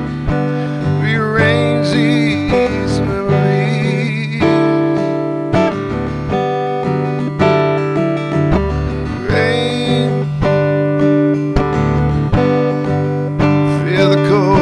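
Acoustic guitar strummed and picked, an instrumental passage between sung verses of a slow song.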